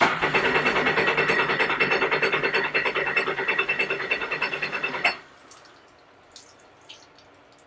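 Sea-Doo Fish Pro jet ski engine turned over by its starter for about five seconds, a fast, even, rhythmic churning that stops abruptly. The engine does not catch.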